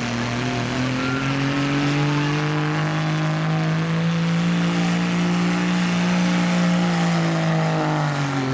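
Diesel pulling truck's engine running hard under load, its pitch climbing slowly through most of the pull and then dropping off near the end.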